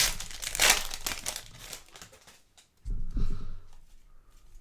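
Crinkling of plastic and foil trading-card packaging as basketball cards are handled, loudest in the first second, followed by a few soft knocks on the table about three seconds in.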